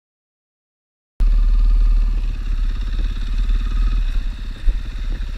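Silence, then about a second in a single-cylinder dual-sport motorcycle engine cuts in suddenly, running steadily with a fast, even firing rhythm.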